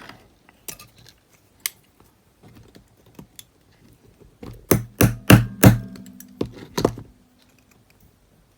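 Small sharp clicks and taps of needle-nose pliers pressing a part into a cassette player's tape mechanism: scattered light ticks, then about five louder clicks in quick succession a little past halfway.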